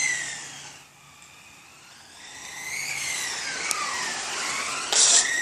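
Motors of 1/10-scale RC race cars whining, the pitch rising and falling as the cars speed up and slow for corners. The whine fades about a second in, builds again, and a short burst of hiss comes near the end.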